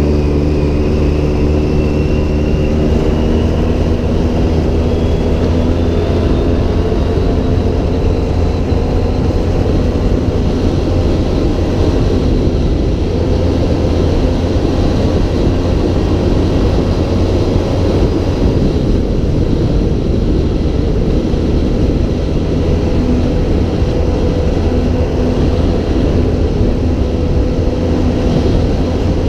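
Off-road vehicle's engine running under load while driving. Its pitch rises over the first few seconds as it accelerates, then holds steady under a constant rush of rumbling noise.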